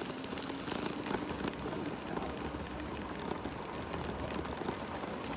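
Tyres of a Segway electric scooter rolling over a sandy, gritty park path: a steady crackling hiss with many small ticks, and a faint motor hum early on.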